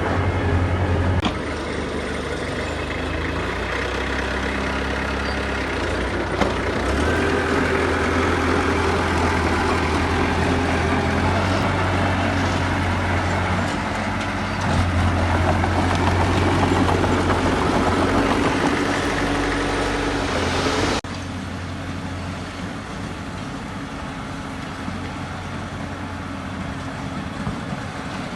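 Diesel engines of heavy earthmoving machinery running under working load, their pitch stepping up and down. The sound is louder for a few seconds past the middle, then drops abruptly to a quieter engine about three-quarters of the way through.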